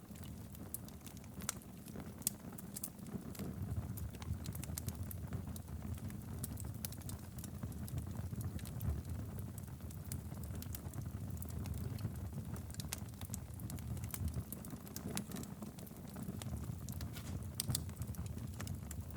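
Wood fire burning steadily in a fireplace, a low rumble of flames with frequent sharp, irregular crackles and pops.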